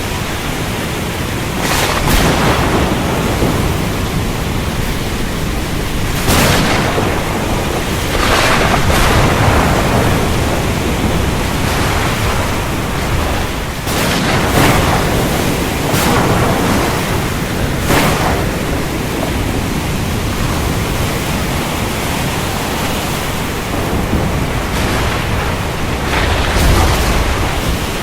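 Heavy steady rain with sharp cracks of thunder breaking through several times, each trailing off in a short rumble.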